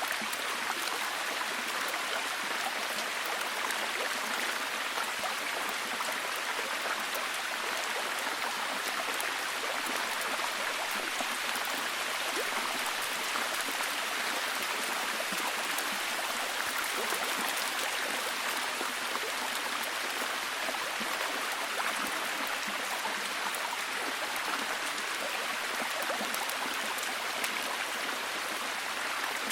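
Steady heavy rain falling, a dense even hiss of many drops with no let-up.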